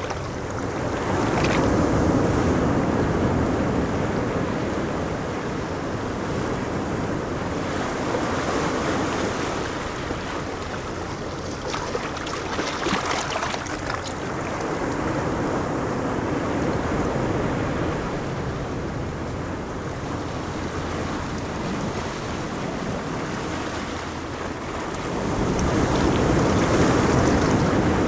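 Ocean waves breaking on a beach: a continuous wash of surf that swells and falls back every several seconds, with wind buffeting the microphone.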